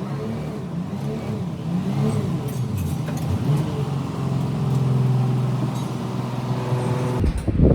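Houseboat's diesel engine running, its pitch rising and falling again and again, then holding steady; it cuts off near the end.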